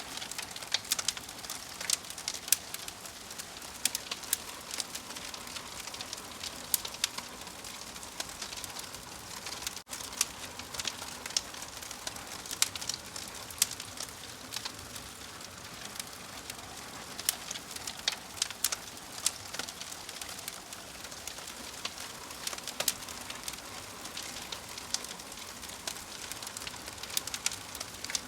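Wood fire crackling: irregular sharp pops and snaps over a steady hiss, with a momentary break about ten seconds in.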